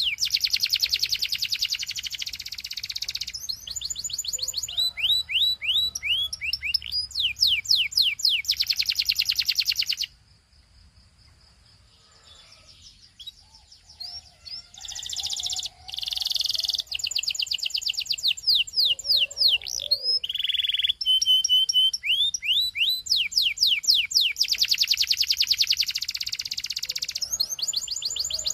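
Belgian canary singing: fast runs of repeated high whistled notes and rapid trills. About ten seconds in the song stops for a few seconds, then resumes.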